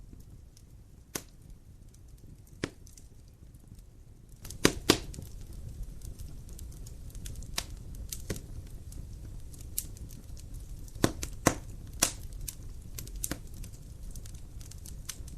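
Wood fire crackling in a fireplace: sharp, irregular pops and snaps over a low steady rumble of flame, growing louder about four seconds in.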